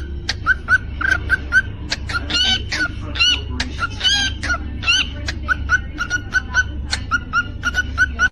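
Cockatiel calling: a quick string of short chirps, about three a second, with a few louder, curving whistled calls in the middle, over a low steady hum.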